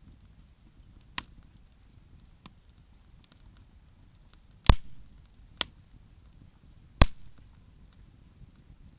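Two loud sharp knocks of wood, about two seconds apart, with a few small pops from the campfire between them.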